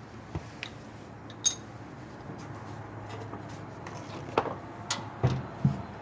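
Scattered light metallic clinks and knocks of hand tools handled against metal parts: a ringing clink about a second and a half in, then several quick knocks near the end, over a low steady hum.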